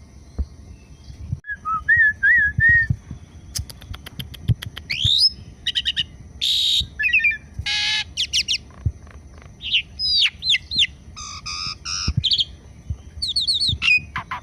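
Javan pied starling (jalak suren) singing a varied run of wavering whistles, rising sweeps, clicks and harsh rasping notes, starting about a second and a half in.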